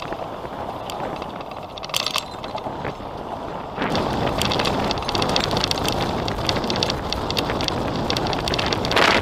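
Strong wind buffeting the microphone of a camera on a moving recumbent bicycle, with the bike's frame and parts rattling in quick clicks. The rush and rattle get louder about four seconds in.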